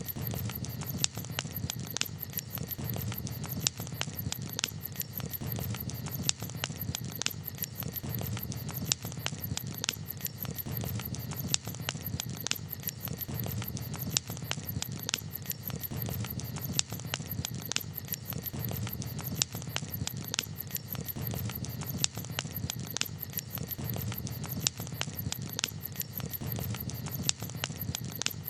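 Campfire crackling: irregular sharp pops and snaps, several a second, over a steady low background noise.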